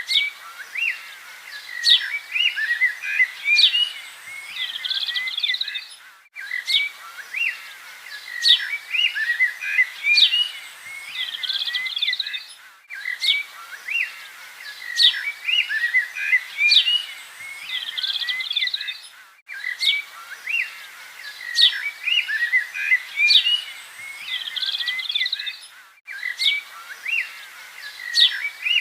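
Several small birds chirping and singing with quick, high calls and trills. It is a short recording looped about every six and a half seconds, with a brief dropout at each join.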